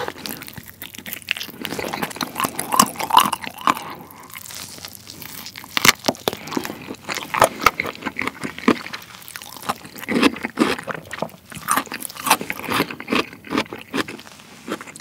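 Biting and chewing fried chicken: crisp crunches of the coating and wet chewing, in quick irregular clusters throughout.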